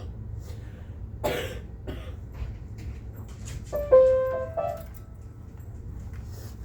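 A few ringing instrument notes, struck or plucked, about four seconds in; the first is the loudest and dies away. Earlier there is a short noisy burst like a cough, over a steady low hum and faint scattered clicks.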